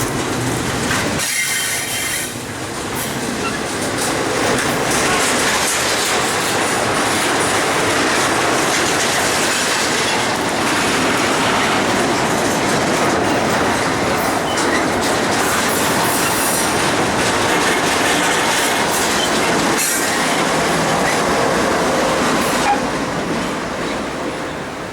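A train's cars rolling past on the track: a loud, steady rush of wheel-on-rail noise.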